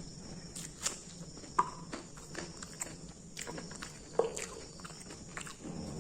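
A person chewing crunchy food close to the microphone: irregular crisp crunches and wet mouth clicks, with sharper bites about one and a half and four seconds in.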